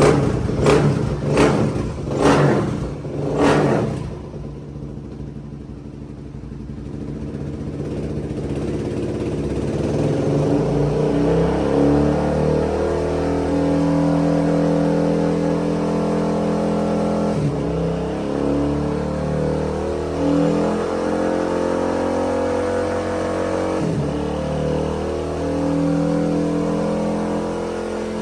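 Suzuki DRZ400 single-cylinder four-stroke with an MRD exhaust running on a dyno. It opens with four quick throttle blips, then after a short lull settles into a steady, loud run under load that dips briefly three times in the second half.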